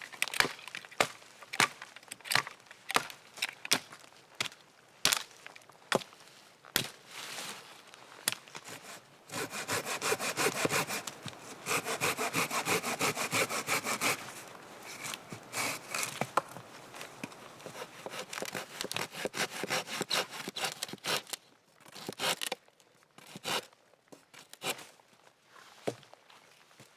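A hand saw cutting through dry dead wood in quick, rapid strokes for about ten seconds, between stretches of sharp wooden knocks, about two a second at first and scattered near the end.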